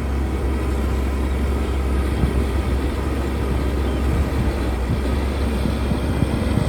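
Heavy diesel earthmoving machinery running steadily: a deep, constant engine rumble.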